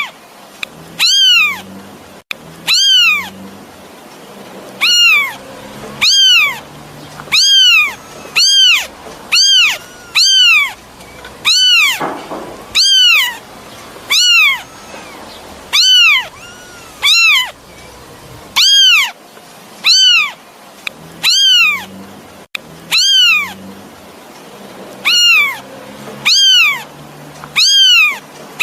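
Kitten meowing over and over, about one high, shrill call every second and a half, each rising then falling in pitch: a kitten calling for its mother.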